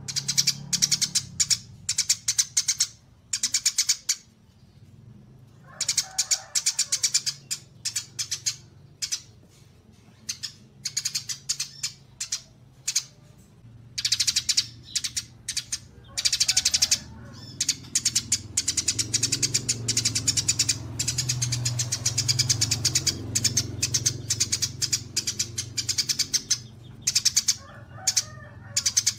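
Small songbirds singing in bursts of rapid, high-pitched chirping trills with short pauses between them, recorded for bird-song mastering.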